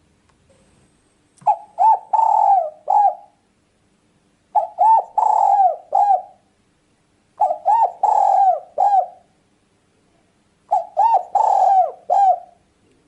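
Spotted dove (tekukur) cooing: four phrases about three seconds apart, each a few short coos around one longer, drawn-out note.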